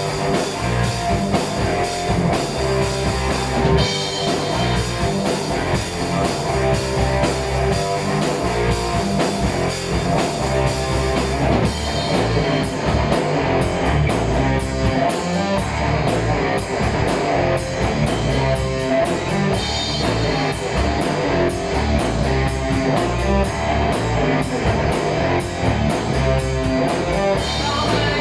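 Heavy metal band playing an instrumental passage live, with guitars and a drum kit.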